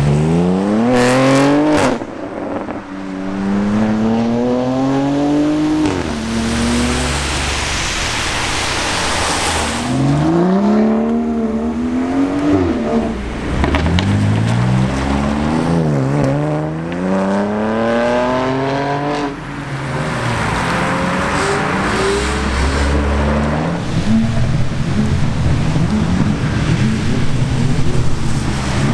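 BMW M3 G80 Competition's twin-turbo straight-six, through a titanium R44 performance exhaust, pulling hard again and again: the engine note climbs through each gear and drops back at every upshift. For a few seconds in the middle a rushing noise takes over with no engine tone.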